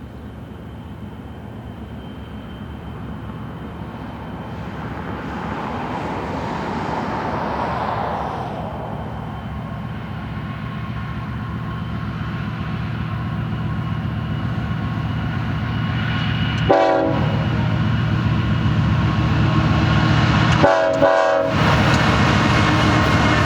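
Approaching freight train led by a GE ES44DC diesel locomotive, its engine rumble growing steadily louder. Two short horn blasts sound in the last third, the second a little longer.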